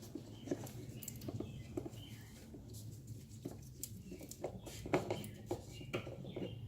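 Irregular light clicks and taps, like small hard parts being handled, over a low steady hum.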